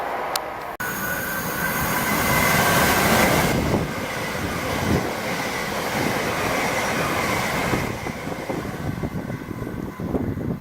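Train passing through the station: a loud rushing of wheels and air with a faint steady whine, loudest a couple of seconds in. Near the end, gusts of wind buffet the microphone.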